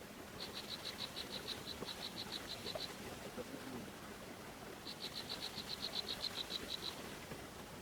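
A small animal's high, pulsed trill, about six pulses a second, heard as two runs of about two seconds each, over a steady faint outdoor hiss.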